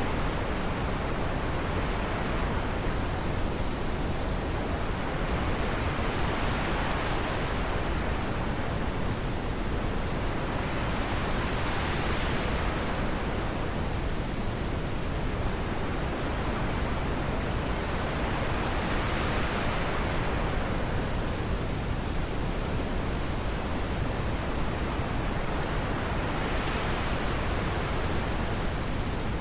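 Wind blowing steadily, a continuous hiss whose brightness rises and falls in slow swells every several seconds.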